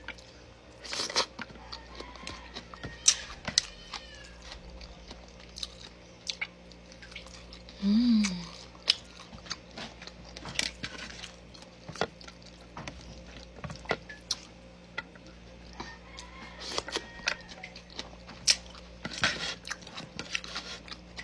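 Close-up eating sounds: chewing and mouth smacks, with scattered clicks and clinks of dishes. About eight seconds in comes one short voiced sound that rises and falls in pitch.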